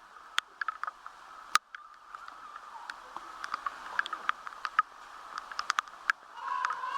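Rain falling: irregular sharp drop strikes tapping close by over a steady hiss. A short pitched sound comes in near the end.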